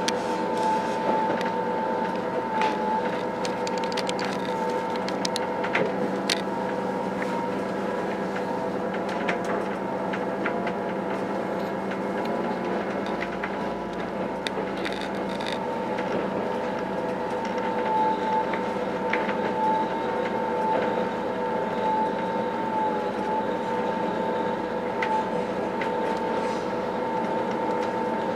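B 81500 (AGC bi-mode) multiple unit under way, heard as a steady running noise from on board. A slightly wavering whine rides on top, with scattered light clicks.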